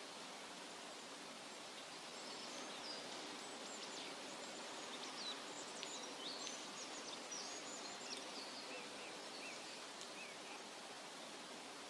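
Steady, even hiss of a forest nature ambience, with small birds chirping in quick high notes from about three to nine seconds in.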